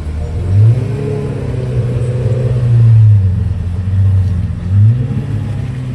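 Pagani Zonda HP Barchetta's 7.3-litre AMG V12 being revved, its pitch sweeping up sharply about half a second in and again near the end. It rises to loud peaks three times: about a second in, midway through and near the end.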